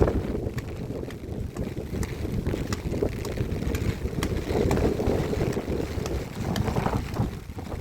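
Strong, gusting wind rumbling on the microphone, with scattered sharp taps.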